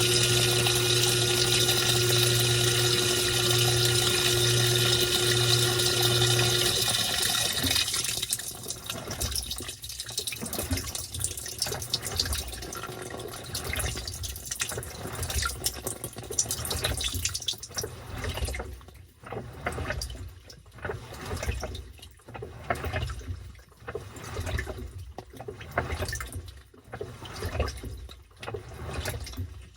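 Washing machine filling from its bath-water pump: a steady pump hum over running water that stops about seven seconds in. After that, water sloshes in uneven surges as the tub agitates the load.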